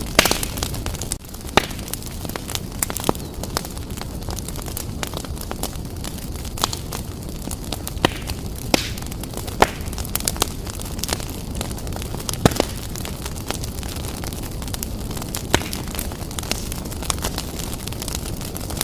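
Fire burning briskly in a fireplace: a steady low rush of flames, with frequent sharp crackles and pops at irregular moments, a few much louder than the rest.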